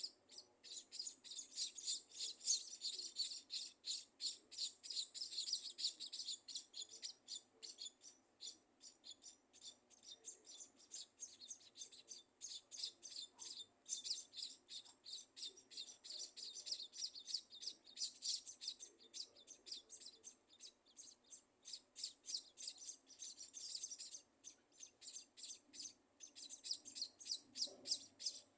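Scaly-breasted munias chirping: a fast, steady run of short high-pitched chirps, several a second, pausing briefly now and then.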